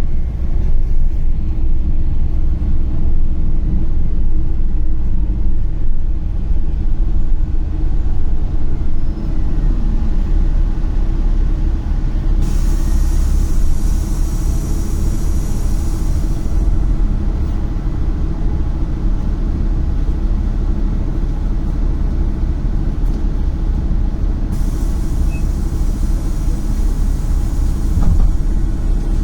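KAvZ 4270-82 bus on the move, heard from inside: a steady low engine and road rumble. A hiss comes in about twelve seconds in for some four seconds, and again about twenty-five seconds in.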